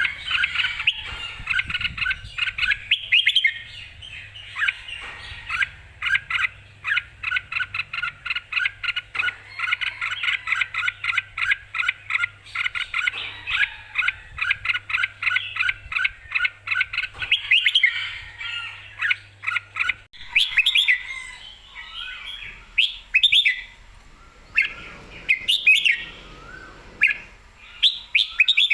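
Red-whiskered bulbul singing: a long, fast run of short repeated chirping notes, changing about two-thirds of the way through to more varied, spaced-out song phrases.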